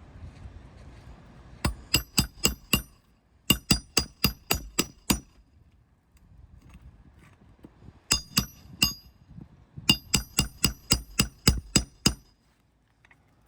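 Hammer driving roofing nails into a replacement shingle: four runs of quick, ringing strikes, about four a second.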